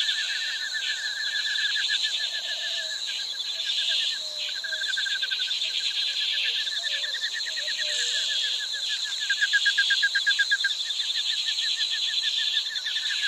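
Dense, unbroken chorus of calling animals: rapid, evenly pulsing trills in several pitch bands, with a few faint short calls lower down.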